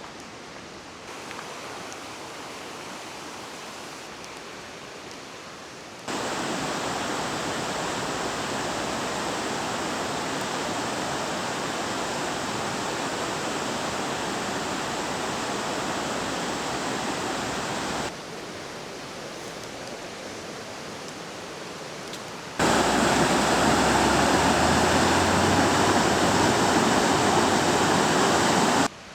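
Waterfall: falling water making a steady rushing noise, cut between shots of different loudness. It jumps louder about six seconds in, drops back after eighteen, and is loudest over the last six seconds.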